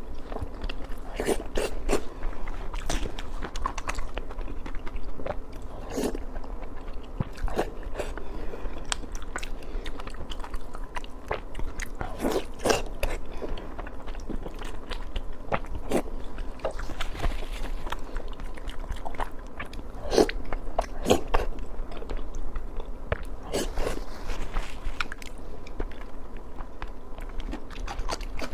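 Close-miked eating sounds: biting and chewing pork belly in sauce, with irregular wet smacks and clicks.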